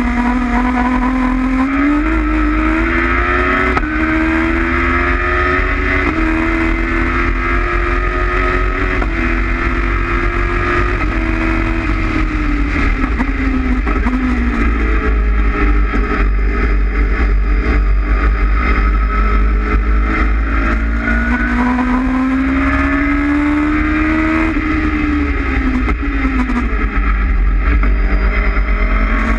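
Honda CBR900RR Fireblade inline-four motorcycle engine in an MK Indy kit car, heard onboard under hard acceleration. The revs climb through several quick upshifts in the first ten seconds, drop off around the middle for a corner, climb again, and fall once more near the end for the next corner.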